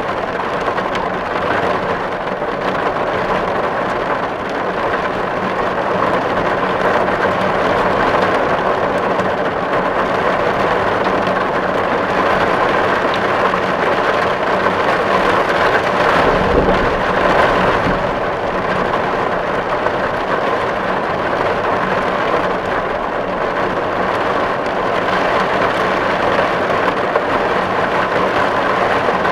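Steady rain drumming on a metal tin roof, a dense even patter of drops on the sheet metal. A brief low rumble comes about halfway through.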